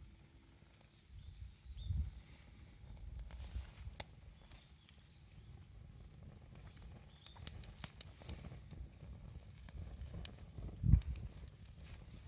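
Wood campfire crackling, with scattered sharp pops and snaps over a low rumble. There are a few dull low thuds, the loudest about eleven seconds in.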